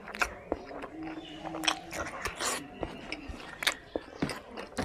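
Close-up mouth sounds of a person chewing a mouthful of rice eaten by hand: wet smacks and sharp clicks at irregular intervals.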